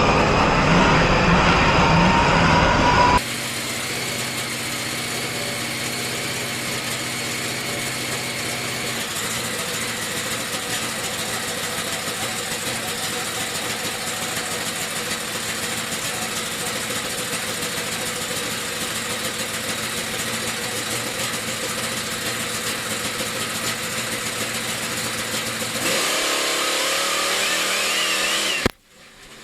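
Monster truck engine running, with a sudden drop in level about three seconds in. After that it is a steady, even drone until a change near the end, then it cuts off abruptly.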